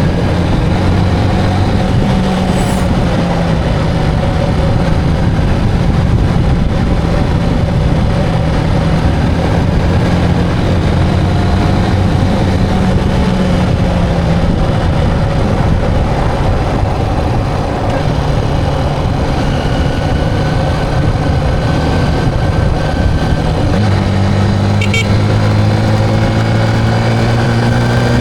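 Motorcycle engine running steadily at cruising speed under a constant rush of road and wind noise. The engine note grows stronger about four seconds before the end.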